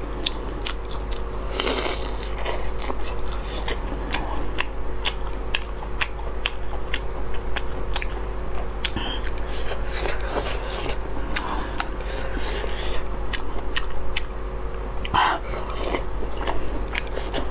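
Close-miked chewing and biting of Chinese ring sausage dipped in chilli sauce: a steady run of small wet mouth clicks and bites.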